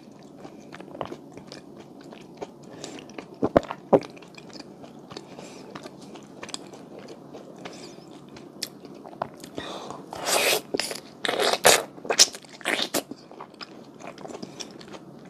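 Close-miked chewing of a Hallabong mochi, soft rice cake with juicy citrus segments and red bean paste: wet mouth sounds with many small clicks, and a cluster of louder bites and smacks about two-thirds of the way through.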